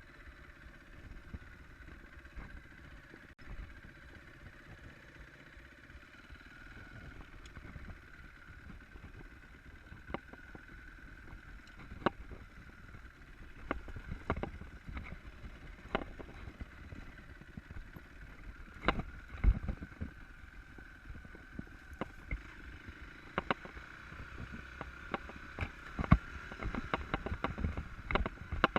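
Muffled riding noise from an enduro motorcycle on rough ground: wind rumble, a faint steady engine tone, and irregular knocks and rattles that come more often in the second half.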